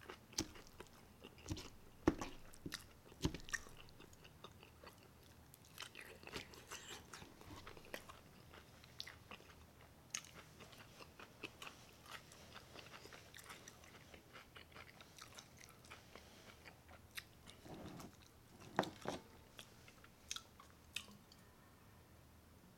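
A person chewing and biting a forkful of a Chipotle burrito bowl close to the microphone: wet smacking and crunching clicks, with louder clusters a couple of seconds in and again near the end.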